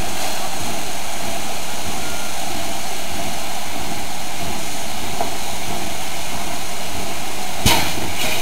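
Heisler geared steam locomotive giving off a steady rushing hiss, with a single sharp clank near the end.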